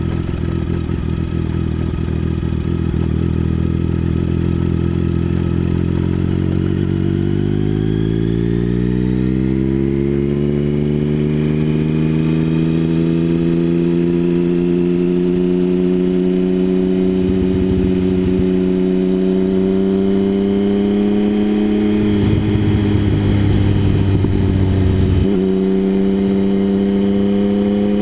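Triumph Speed Triple 1050's three-cylinder engine through a Mivv aftermarket exhaust, running steadily and then rising smoothly in pitch as the bike accelerates. It holds a high, steady note, with a brief dip and recovery near the end.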